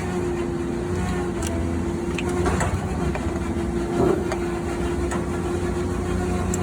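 Diesel truck engine idling steadily, with a few sharp clicks scattered through.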